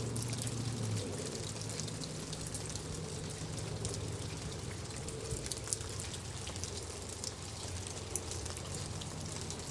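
Steady rainfall, water pattering and dripping, with many small drop ticks, over a low steady hum.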